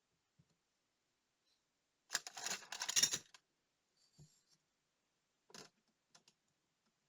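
Small metal parts and hand tools handled on a work surface: a dense clattering rattle for about a second, then a few light separate clicks.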